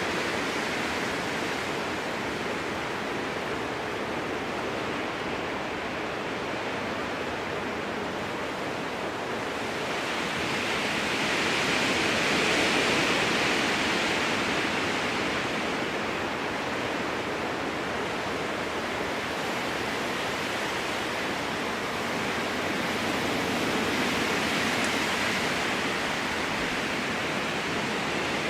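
Strong wind blowing through a spruce forest: a steady rushing that swells in two gusts, the first about ten seconds in and the second near the end.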